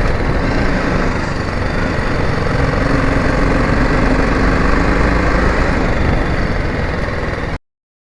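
Motorcycle engine running steadily; the sound cuts off abruptly near the end.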